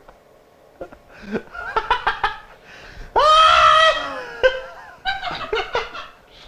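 Men laughing in short choppy bursts, with a loud, long, high-pitched shriek of laughter about three seconds in.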